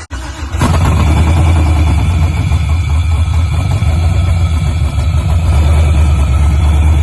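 LS V8 with a BTR stage 3 cam, swapped into a 1996 Impala SS, starting with a brief crank, catching about half a second in, then running steadily and loud.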